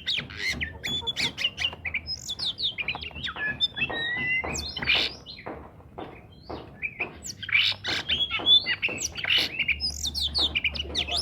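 Oriental magpie-robin (kacer) singing nonstop, a rapid, varied run of clear whistles, chattering trills and harsh scratchy notes.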